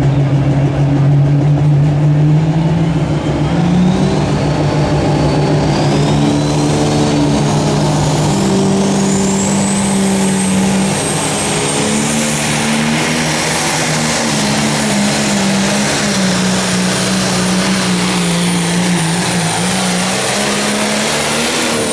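Pro Stock pulling tractor's turbocharged diesel engine running flat out under load as it pulls the sled down the track. A high turbo whine climbs steadily over the first dozen seconds, then holds. The engine note cuts off sharply at the very end as the run finishes.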